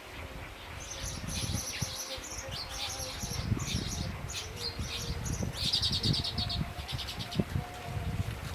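Small songbird chirping in a run of short, high notes, breaking into a quick rattling trill about two-thirds of the way in, over a low rumble.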